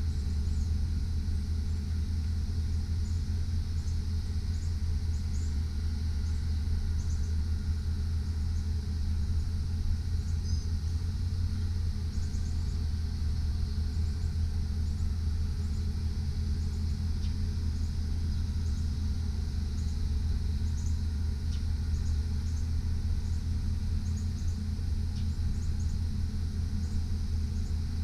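Engine of a GMC Sierra 3500 HD bucket truck idling steadily with a low, even rumble.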